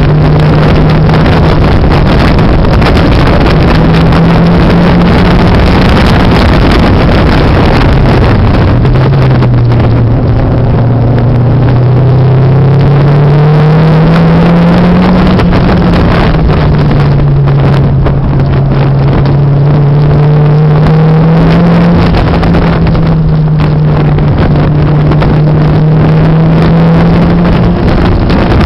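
Turbocharged Mazda MX-5 four-cylinder engine heard from inside the cabin at track speed, recorded very loud over dense road and wind noise. The engine pitch climbs steadily for several seconds under acceleration, drops about halfway through, climbs again and then holds steady.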